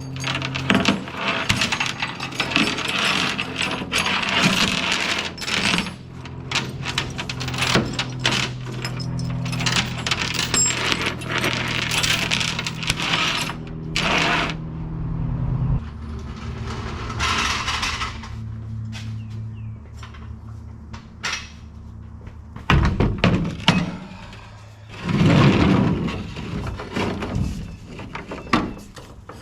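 Metal clanking and rattling over a steady engine hum. The hum drops lower and quieter about halfway through. There are louder clattering stretches near the end.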